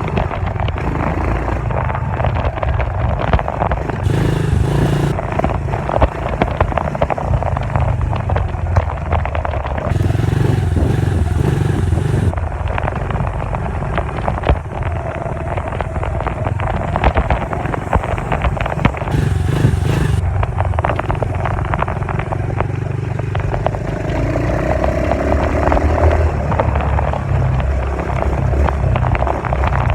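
Dirt bike engine running as the bike is ridden, its note rising and falling, with a lot of clatter and rattle over it.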